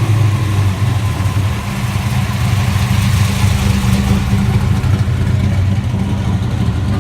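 A car engine running close by with a deep, steady low rumble.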